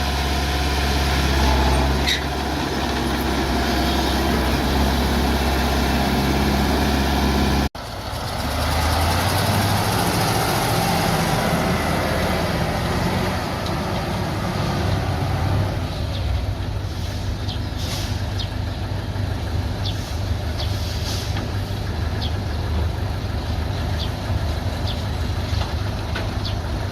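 Bulldozer's diesel engine running steadily. The sound cuts off abruptly about eight seconds in and comes straight back. A few short high squeaks are heard in the second half.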